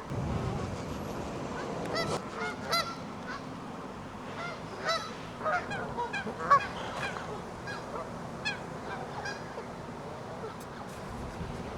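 Canada geese honking: many short calls, some overlapping, clustered through the middle of the stretch.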